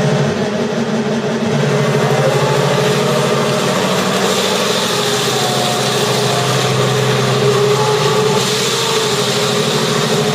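Engine sound generator in a 1/6-scale Tiger tank model playing a tank engine running steadily through its small speaker, with a fainter whine that rises and falls a few times.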